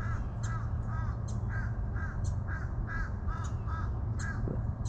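A bird calling over and over, about two short arched calls a second, with thin high chips between them, over a steady low hum.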